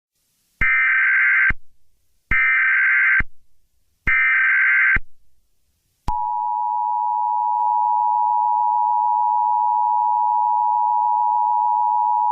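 Emergency Alert System alert opening: three short bursts of the screeching digital SAME header, each just under a second long. About six seconds in, the steady two-tone EAS attention signal starts and holds.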